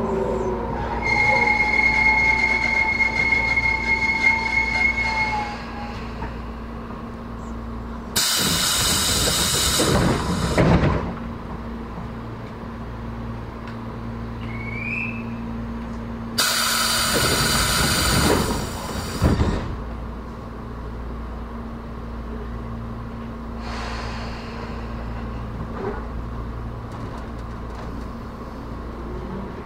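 Interior of a Tobu 10030 series electric train with chopper control pulling into a station. A steady high whine fades as it stops. Two loud bursts of hiss follow, at about eight and sixteen seconds in, as the doors open and then close, over a steady low hum. Near the end the chopper whine starts rising again as the train pulls away.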